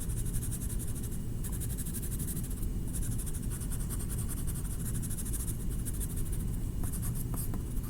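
Colouring strokes scratching on paper, over a steady low hum. A few light clicks come near the end.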